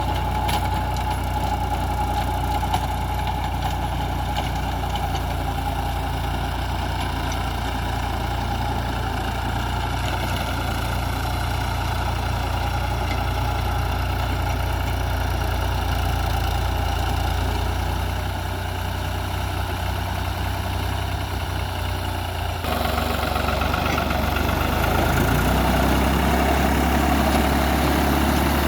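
Tractor engine running steadily. Its sound changes abruptly about three-quarters of the way through and grows a little louder near the end.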